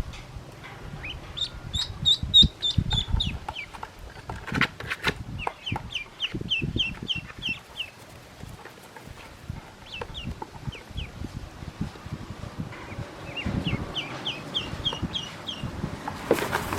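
Pekin ducklings peeping in several quick runs of short, high, falling peeps, with scattered light taps and rustles between them.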